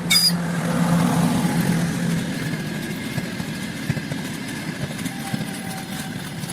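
An engine idling with a steady low hum, slightly louder over the first two seconds. A brief sharp sound comes right at the start.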